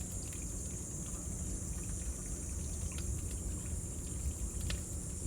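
Bonfire crackling with a low steady rumble and a few sharp pops, over a constant high-pitched drone of cicadas.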